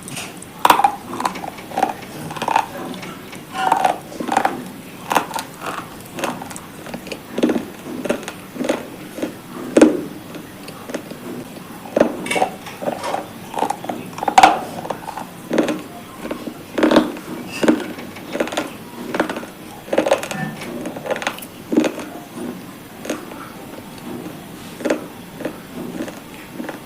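A person biting and chewing hard, brittle slate pieces close to the microphone: crisp crunches come irregularly, about one or two a second.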